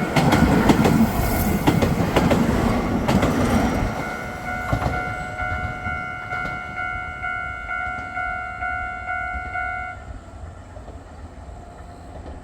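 A Nankai electric train passing over a Japanese level crossing, its wheels clattering over the rail joints and fading after about four seconds. The crossing's electronic warning bell keeps ringing in an even repeated chime, a little under two a second, and cuts off about ten seconds in as the crossing clears.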